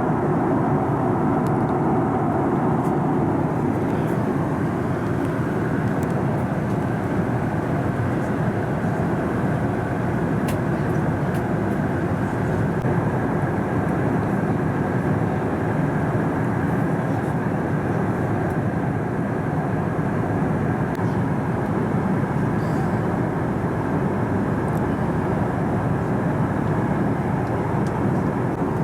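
Steady in-flight cabin noise of a Boeing 737 MAX 8-200 heard from inside the cabin: an even rush of airflow and its CFM LEAP-1B jet engines, unchanging in level.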